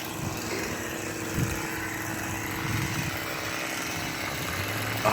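Distant chainsaw running steadily, with an even hum.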